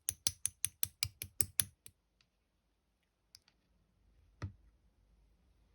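A quick, even run of about ten sharp clicks, some five a second, then a few scattered faint clicks and one duller knock about four and a half seconds in.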